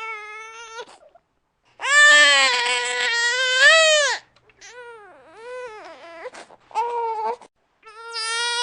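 Baby crying: a run of high-pitched wails with brief pauses for breath, the loudest a long wail about two seconds in, followed by shorter falling cries.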